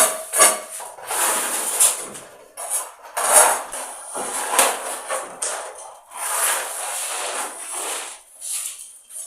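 Repeated rough scraping strokes over gritty cement and sand, roughly one a second, with a few sharp knocks among them.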